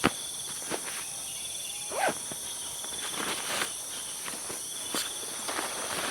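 Steady high-pitched chirring of forest insects, with scattered knocks and clicks of footsteps or handling close by.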